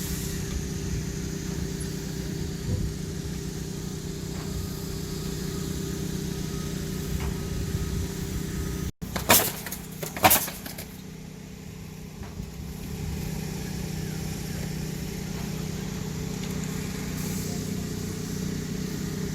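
A steady motor-vehicle engine hum. It is interrupted once by a sudden break and two loud knocks about a second apart, after which the hum continues more quietly.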